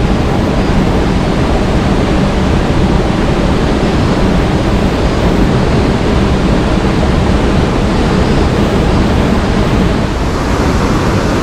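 Rushing water, loud and steady, with no breaks.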